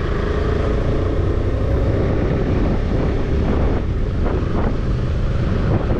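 Motorcycle engine running steadily under heavy wind rumble on the microphone.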